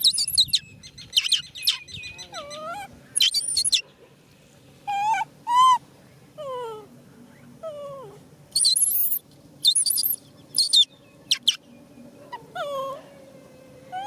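Young macaque crying: bouts of shrill, very high screams, mixed with shorter whimpering calls that slide down in pitch, repeated with short pauses between them.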